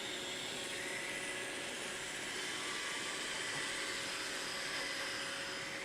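Roomba robot vacuum running: a steady whir of its fan and brushes with a faint high whine.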